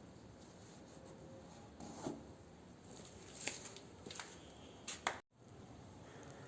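Faint handling noises: a few short scrapes and clicks over a low hiss, the sharpest just after five seconds, followed by a momentary dropout.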